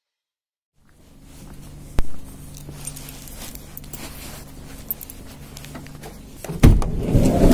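A steady low hum with a sharp click about two seconds in, then a loud knock and a couple of seconds of clattering handling noise near the end.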